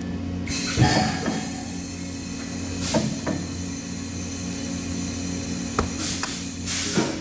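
TIG welding arc hissing steadily over an electrical hum from the welding machine, struck about half a second in, with a few sharp metallic knocks.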